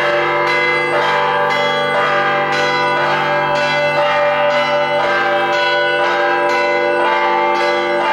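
Church bells pealing, struck about twice a second, the tones of several bells overlapping and ringing on.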